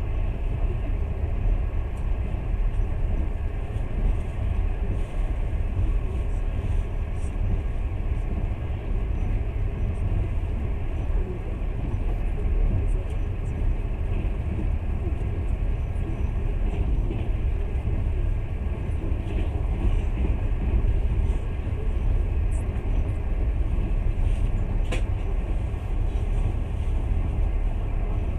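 Passenger train running at speed: a steady, deep rumble of the carriage and wheels on the rails, with one short sharp tick about 25 seconds in.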